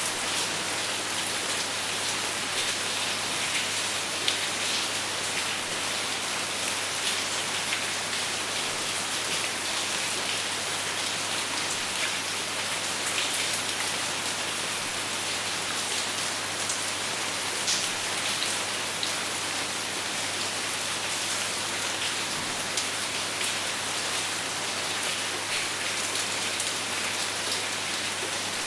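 Steady rain falling, with many separate drops pattering on a surface and no thunder.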